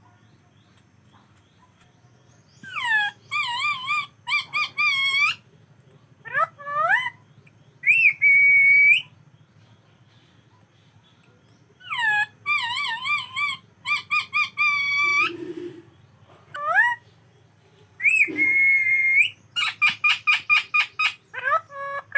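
Pet parrot whistling in short phrases of rising glides, wavering trilled notes and a held note, with pauses between them. A very similar whistled phrase comes twice, about ten seconds apart.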